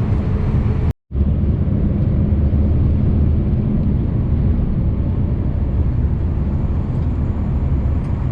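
Scania V8 truck engine running steadily while driving, with road noise. The sound cuts out completely for a split second about a second in, then carries on as before.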